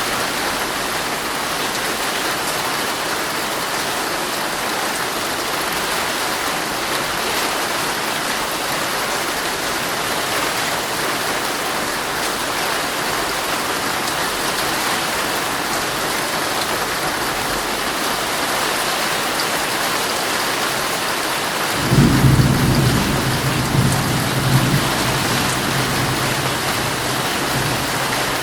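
Heavy rain falling steadily on a tent. About three-quarters of the way through, a low roll of thunder comes in and rumbles on with a few swells.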